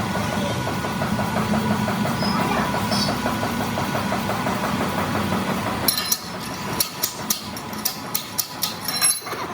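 An engine runs steadily with a fast, even pulse for about six seconds, then cuts out. A quick series of sharp metal clinks and taps follows.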